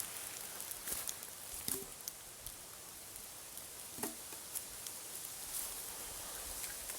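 Small wood campfire crackling, with scattered sharp pops and ticks over a faint hiss.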